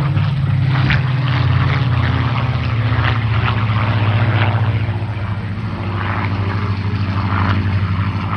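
Piston warbirds in formation flight, a Spitfire Mk 18 with its Rolls-Royce Griffon 65 engine and a P-51D Mustang with its Rolls-Royce Merlin, passing with a loud, steady engine and propeller drone. The drone is loudest in the first few seconds and eases slightly toward the end.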